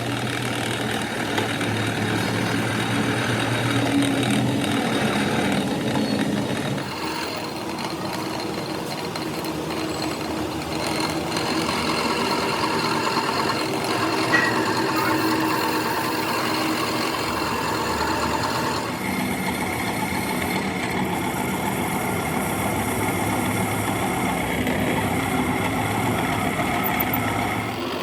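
An engine running steadily, its sound shifting abruptly about 7 seconds and again about 19 seconds in.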